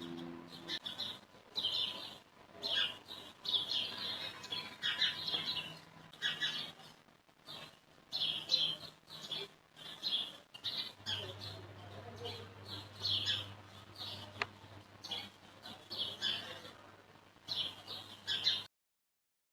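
Small birds chirping repeatedly in short irregular calls, over a faint low hum; the sound cuts off abruptly near the end.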